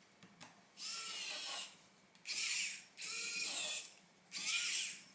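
Small electric precision screwdriver with a T3 Torx bit, run in four short bursts of under a second each, its whine rising as it spins up and falling as it stops.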